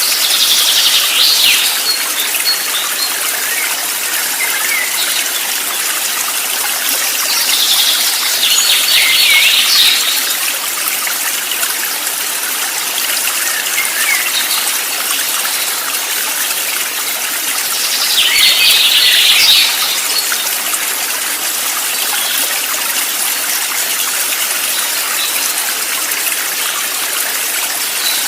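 Steady rush of flowing water, with a bird's chirping call of a second or two heard three times, about nine seconds apart.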